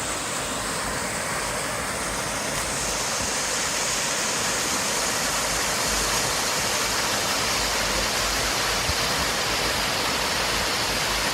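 Waterfall cascading, a steady rushing of falling water that grows slightly louder about two and a half seconds in.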